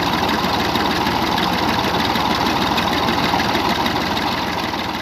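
Massey Ferguson 135 tractor engine running steadily at a constant speed, driving a tubewell pump.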